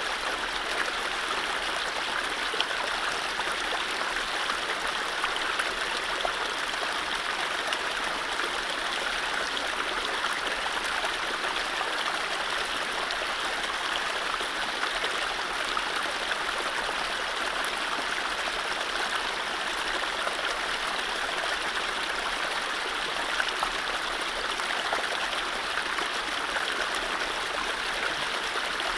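Mountain stream running over low rapids: a steady rush of water.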